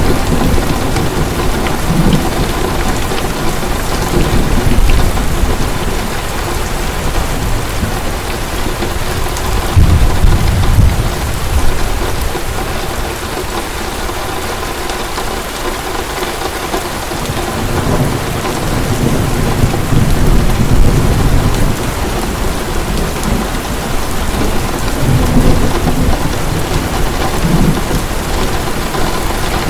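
Heavy rain falling steadily, with rolling thunder rumbling in low swells several times, loudest about ten seconds in and again about twenty seconds in.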